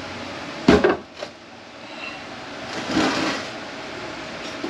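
Transmission parts being handled on a workbench: a loud knock a little under a second in, a lighter click just after, then a short scraping sound about three seconds in.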